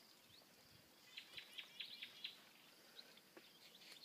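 A bird chirping faintly: a quick run of about eight short, high notes about a second in, lasting about a second, over an otherwise near-quiet background.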